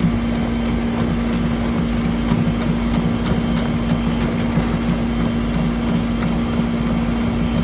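A machine motor running steadily with an even hum, with scattered ticks and rattles over it.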